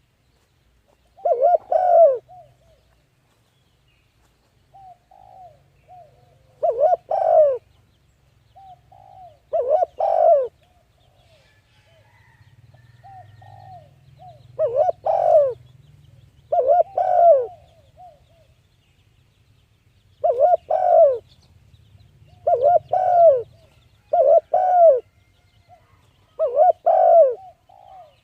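A bird calling repeatedly: short low-pitched calls, each a quick cluster of arched notes, coming every two to three seconds, with softer single notes between some of them. A faint low hum runs underneath through the middle stretch.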